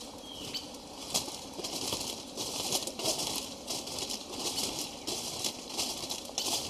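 Irregular rustling and scraping noises in quick, uneven bursts, over a faint steady high-pitched whine.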